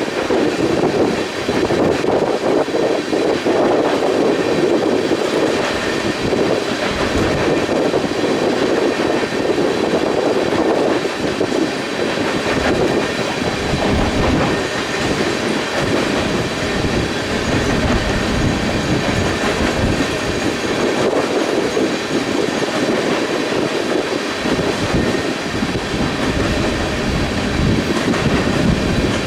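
Freight train passing, its cars rolling steadily along the rails, with wind gusting on the microphone.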